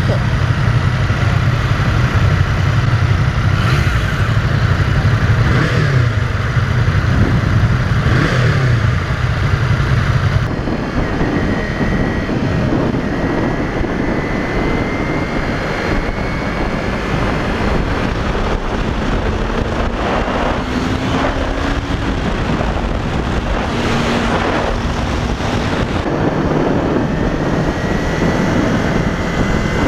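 2015 Yamaha YZF-R3's parallel-twin engine running on the move, its pitch rising slowly several times as it accelerates, over a wash of road and wind noise. A heavy low rumble drops away abruptly about ten seconds in.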